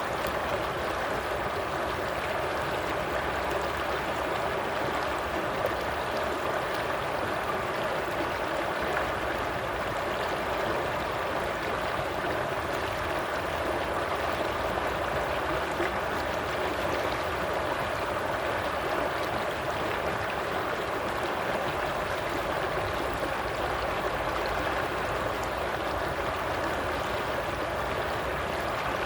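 Stream water flowing steadily, a continuous even rush and babble.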